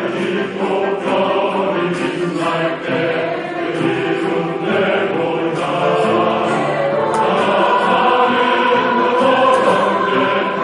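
Choir singing a sustained, flowing melody, with the men's section taking the line after being cued.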